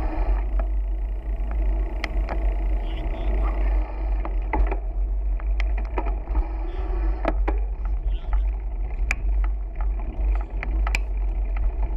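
Wind buffeting the microphone of a camera on a moving bicycle, a steady low rumble, with sharp clicks and rattles scattered throughout.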